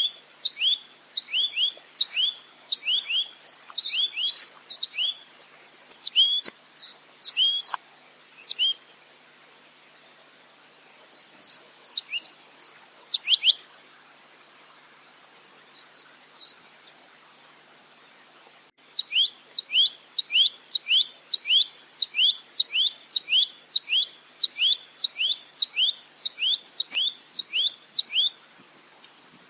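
Nuthatch (rambatan) calling in quick runs of sharp, down-slurred chirps, about two a second. The calls thin out to scattered notes for several seconds in the middle, then a long, even run resumes.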